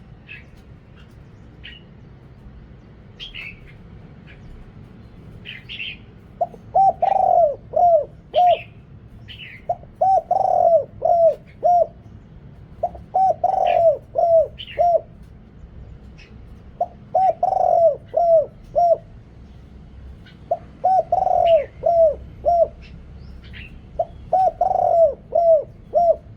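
A male spotted dove cooing. From about six seconds in it repeats the same phrase about six times, roughly every three and a half seconds, each phrase a quick run of about five low coos with the loudest notes near the start. Short, high chirps from other birds come and go throughout.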